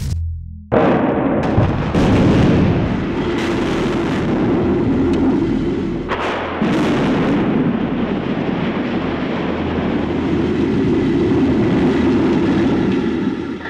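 Explosive demolition of a building: after a brief hush, a sudden blast, then a long noisy rumble of the structure coming down, with a second sharp burst about six seconds in.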